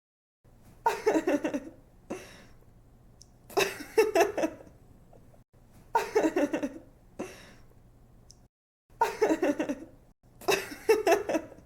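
A young woman laughing in five short bursts of quick giggles, with brief pauses between them.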